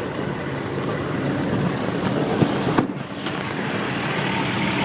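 Canadian Pacific train passing through a level crossing: a steady rumble and rail noise that grows louder and brighter about three seconds in. A few short knocks sound over it.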